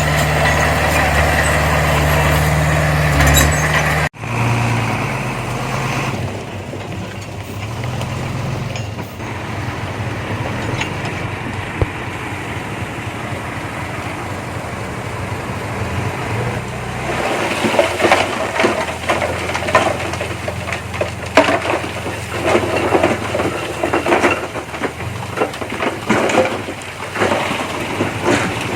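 Diesel engines of heavy earthmoving machines running, loud and steady at first, then cutting off abruptly about four seconds in and resuming more quietly. A little past the middle, a rapid clanking and rattling sets in and continues, like crawler-track clatter from a working bulldozer.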